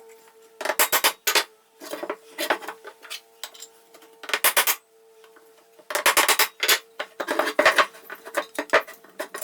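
Metal parts of an old air compressor and hand tools clinking and clattering in short bursts, about six in all, as the compressor is taken apart.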